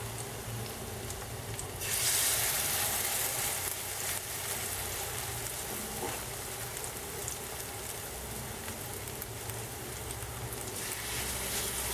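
Chicken patties frying in hot oil in a pan: a steady sizzling hiss that gets louder about two seconds in, then settles.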